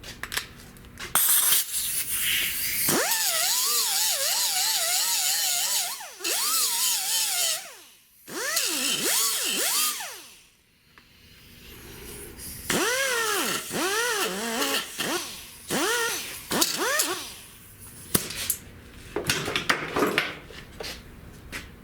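Handheld power tool working sheet-metal body panel in bursts, with a hissing grind and a whine whose pitch sags and recovers again and again as the tool is pressed into the metal.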